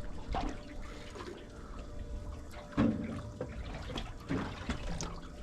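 Water splashing and trickling on a boat, with scattered small clicks and knocks and a louder thump about three seconds in.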